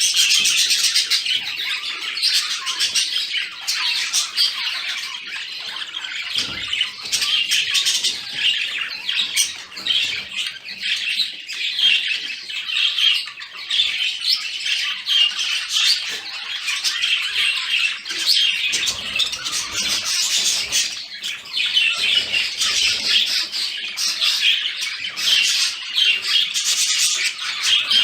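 Budgerigars chattering and warbling without a break, with frequent sharp squawks mixed into the high-pitched twittering.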